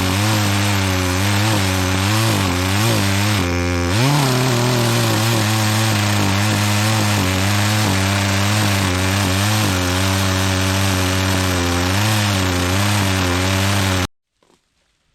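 Chainsaw running at high speed while cutting into a pine trunk, its pitch wavering as the chain loads and unloads and rising briefly about four seconds in. It cuts off abruptly near the end when the recording stops.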